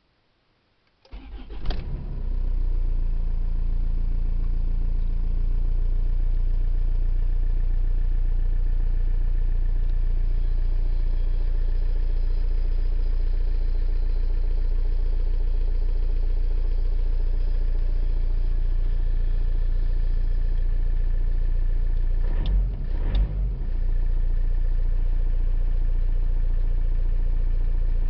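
Mazda 626 2.0 DiTD four-cylinder turbodiesel cold-starting at −6 °C: it cranks briefly, catches about a second in, and settles into a steady cold idle. A short irregular break in the engine sound comes about 22 seconds in.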